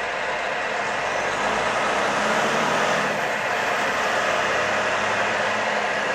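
Semi truck driving at highway speed, heard from inside the cab: a steady engine drone under an even wash of road and wind noise.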